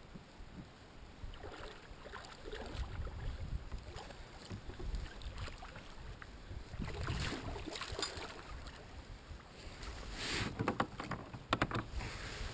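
Water sloshing against a kayak hull with low rumbling and movement noise, and a quick cluster of sharp clicks or knocks near the end.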